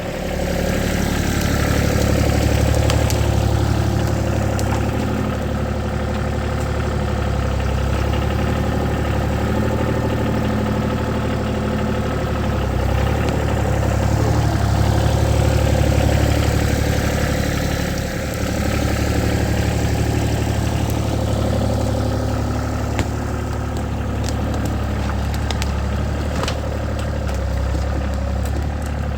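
Ford 1720 compact tractor's three-cylinder diesel engine running while the tractor pushes brush, its sound swelling and easing several times as the load and throttle change. A few light clicks come near the end.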